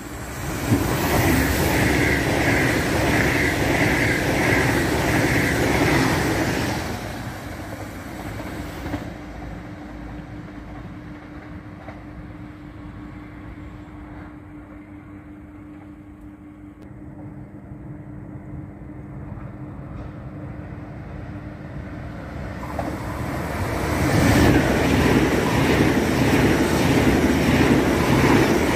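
A train running through the station at speed, loud for several seconds with a rhythmic pulsing clatter from the wheels on the track, then fading. Later a second train builds up and rushes past close by near the end.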